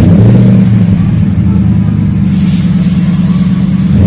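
2011 Ram 1500's 5.7-litre Hemi V8, just fired up and idling steadily, heard through a custom cat-back true-dual exhaust with a dual-in, dual-out Magnaflow muffler off the factory catalytic converters.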